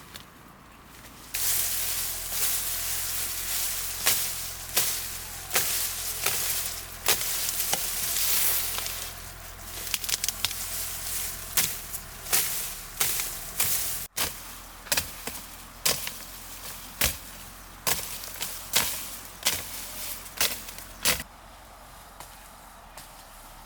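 A series of sharp chopping strikes, irregular at first and then about one a second, over a steady hiss; both stop suddenly near the end.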